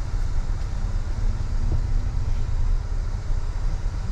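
Steady low rumble inside the cab of a stock Toyota Tundra crawling slowly along an off-road trail, the engine and drivetrain running with a faint hum over the rumble.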